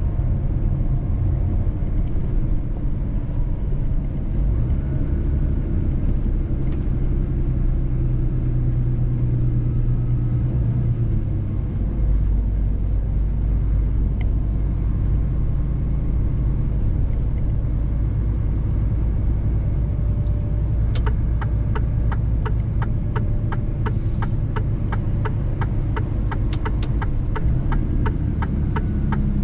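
Mercedes-Benz truck driving, with a steady low engine and road rumble. About two-thirds of the way through, a quick, even ticking starts and keeps going.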